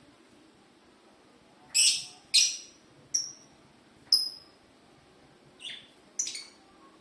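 Lovebird giving six short, high-pitched calls, starting about two seconds in, the fifth one fainter than the rest.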